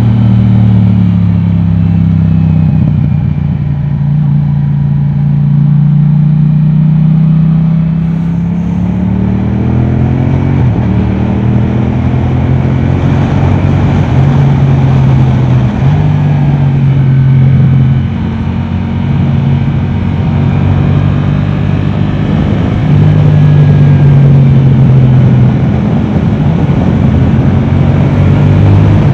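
Yamaha R7's parallel-twin engine through an Akrapovic exhaust, ridden hard: the engine note falls for the first few seconds as the bike slows, rises again about ten seconds in, then runs at high revs with several brief breaks and steps in pitch.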